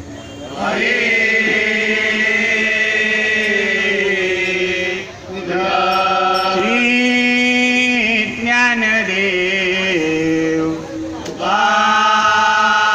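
Voices singing a Marathi devotional bhajan in long, drawn-out held notes, phrase after phrase, with brief breaths about five and eleven seconds in.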